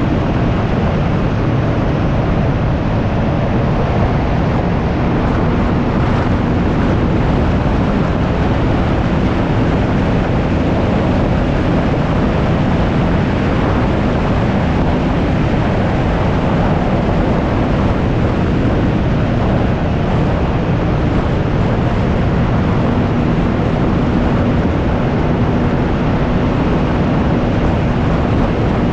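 Can-Am Ryker 900's three-cylinder Rotax engine running at a steady cruising speed, under heavy wind rush on the microphone.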